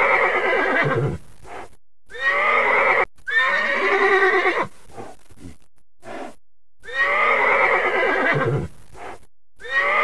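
Horses neighing: a series of loud whinnies, each one to two seconds long and coming every two to three seconds, with fainter short neighs between them.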